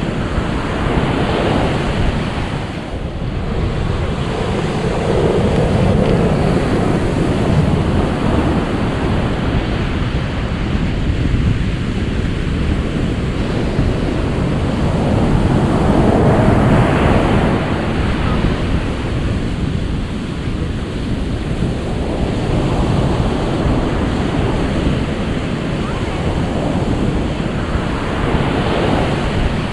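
Ocean surf: waves washing in as a steady rush that swells and eases every several seconds.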